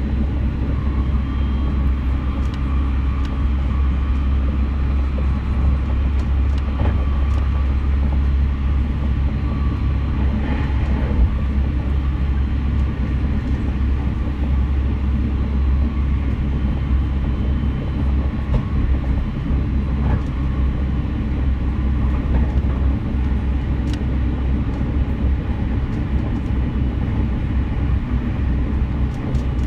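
A JR West 683 series electric train running at speed, heard from inside the car: a steady low rumble of the wheels on the rails with a few faint clicks.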